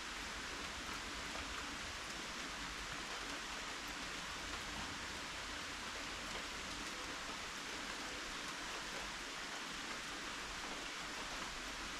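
Steady rain falling: a constant, even hiss without distinct individual drops or changes.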